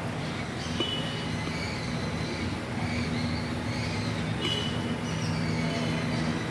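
A steady, low mechanical hum like a running engine, with short high chirps sounding over it now and then.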